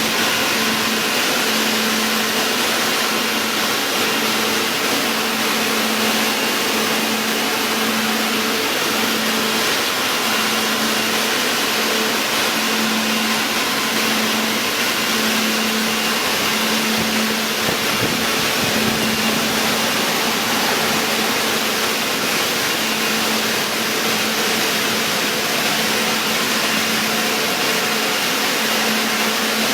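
Car wash machinery running: a loud, steady rushing noise with a constant low hum underneath.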